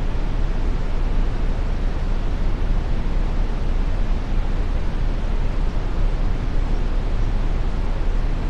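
Steady brown noise: an even, unbroken rushing hiss, heaviest in the deep bass and thinning toward the treble.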